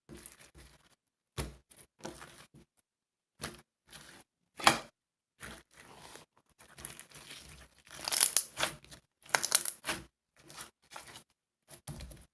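Crinkling, tearing handling noises in short, irregular bursts, with a sharp click near the middle and a busier stretch of rustling toward the end.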